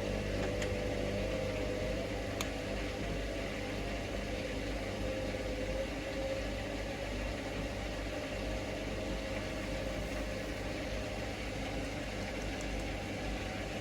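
Hoover Link washing machine's motor turning the drum at distribution speed with a steady, slightly wavering hum, trying again to balance an unbalanced load before the intermediate spin.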